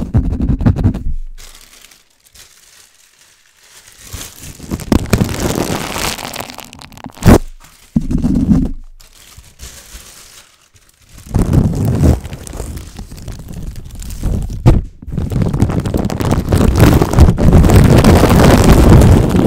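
Fast, aggressive scratching directly on a microphone. It comes in bouts of loud scratchy noise broken by short pauses, with one sharp knock partway through and the longest bout near the end.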